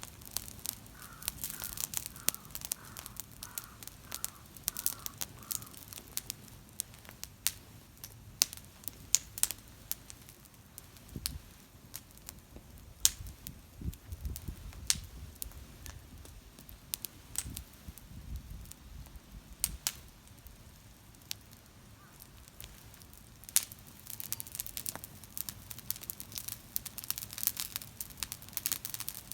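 Campfire crackling, with irregular sharp pops and snaps of burning wood. A faint repeated call sounds several times in the first few seconds.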